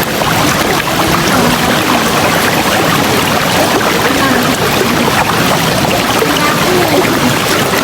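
River water rushing steadily, with bubbly gurgles rising and falling in pitch.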